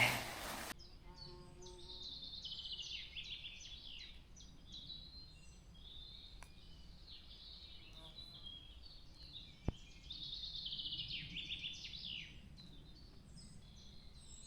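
Songbirds singing, faint: several birds with rapid repeated notes and trills. One sharp click about nine and a half seconds in.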